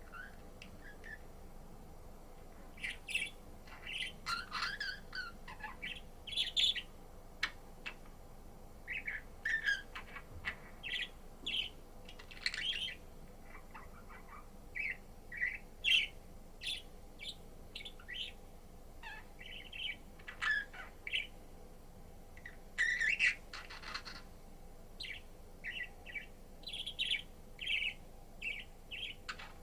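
Pet budgerigar chirping in short, irregular high chirps, some clustered in quick runs, with a louder, harsher burst about two-thirds of the way through.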